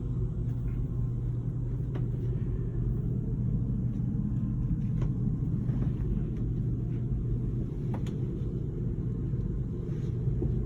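Steady low hum of an RV rooftop air conditioner running, with a few faint clicks.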